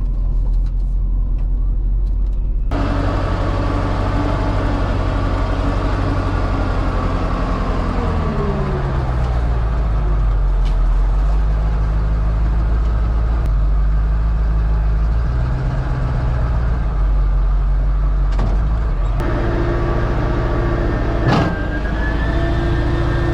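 Rollback tow truck driving, its engine and road noise heard steadily; the engine note drops about a third of the way in as it slows.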